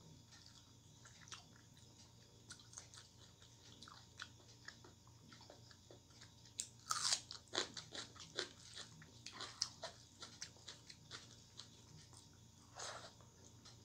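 Biting into a whole raw onion and chewing it: crisp crunches, loudest about seven seconds in, followed by a run of chewing crackles.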